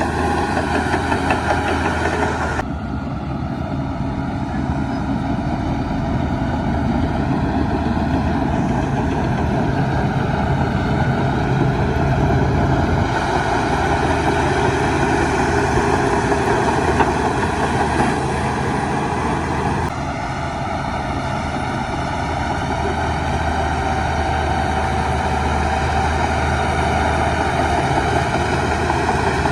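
Heavy diesel earthmoving machinery running steadily with a strong low engine hum. The sound changes abruptly twice, about 3 seconds in and about two-thirds of the way through.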